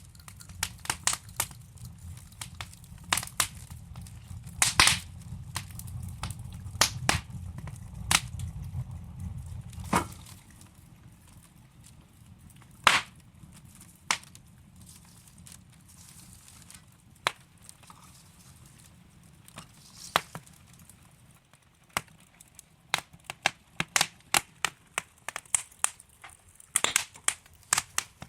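Wood burning in a fireplace, crackling with sharp, irregular pops and snaps from the logs. A low rumble sits under the first ten seconds and then dies away. The pops thin out in the middle and come thick again near the end.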